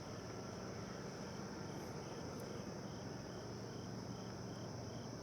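Insects chirping, faint: a steady high trill with a fainter, regular chirp about twice a second, over a low rumble.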